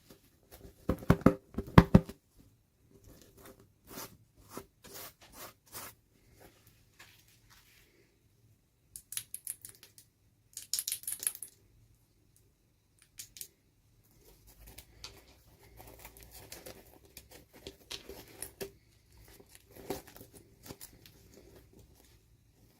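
Toy packaging being handled and opened by hand: irregular taps, crinkles and scrapes, loudest about a second in, with short hissy tearing sounds near the middle.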